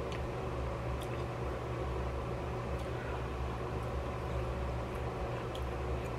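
A steady low electrical hum over a background hiss, with a few faint clicks, about one second in, near the middle and near the end.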